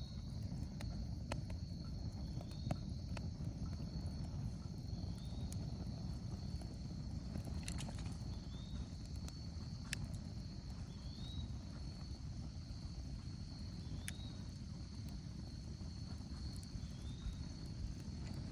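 Wood fire crackling with scattered sharp pops, over a steady high-pitched drone of insects and a short rising chirp repeating every few seconds.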